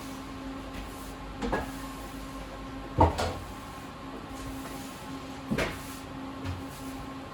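Three short clunks, about one and a half, three and five and a half seconds in, the middle one the loudest, over a steady electrical hum.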